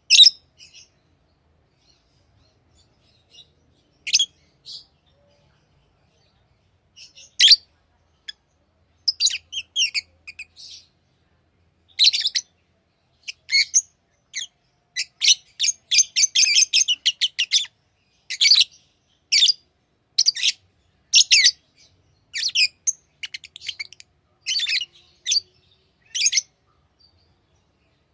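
Pet lovebirds chirping: short, sharp, high-pitched chirps, few at first, then coming thick and fast from about halfway, with a quick chattering run in the middle.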